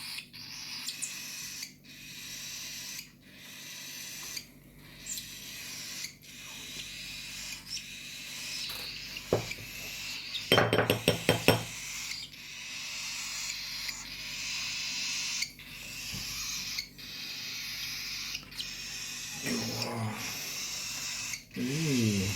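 Nestling birds begging: a steady high hissing that breaks off briefly about every second and a half. About halfway there is a short, loud burst of rapid cheeps.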